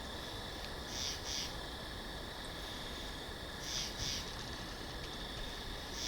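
Winter forest ambience: a steady hiss of wind through trees, with a short high double sound repeating about every three seconds.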